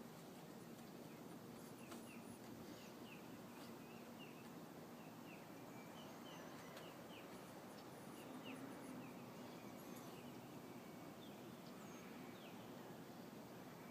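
Faint bird chirping: many short, high chirps scattered throughout, over a steady low hiss.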